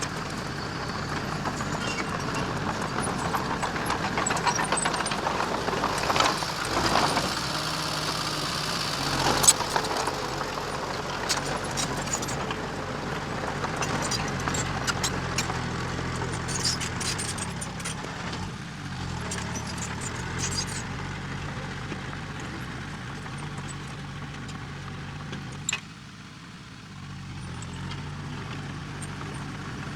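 Diesel engine of heavy earth-moving machinery running steadily, with scattered metallic clanks and rattles over it; the loudest clank comes about nine and a half seconds in.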